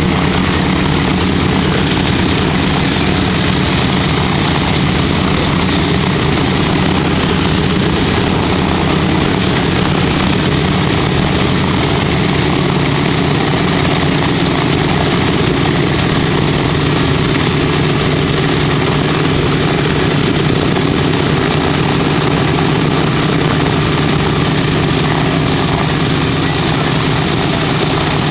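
Boeing B-17 Flying Fortress's Wright R-1820 Cyclone nine-cylinder radial engines running after start-up, a loud, steady propeller-engine drone that holds an even pitch.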